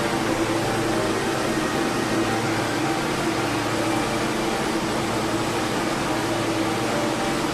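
TIG welding arc on a 6G pipe hot pass, a steady hiss with a constant hum underneath.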